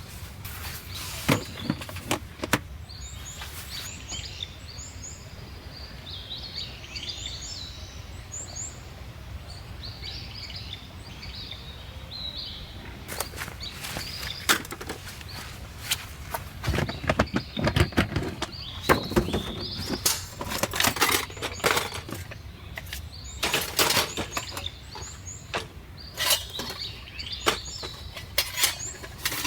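Small birds chirping over a low steady outdoor background. Then, from about halfway, a long run of irregular sharp knocks and clatters.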